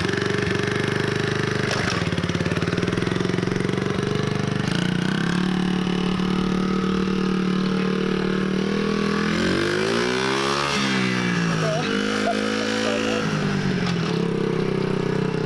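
Small dirt bike engine running steadily, revved up once and back down about ten seconds in.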